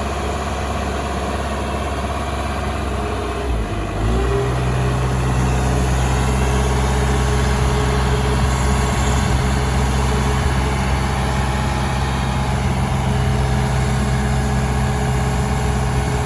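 Case 590 Super M Series 2 backhoe's four-cylinder turbo diesel engine running steadily. About four seconds in, the engine note breaks and glides up in pitch, then settles into a steadier, slightly louder run.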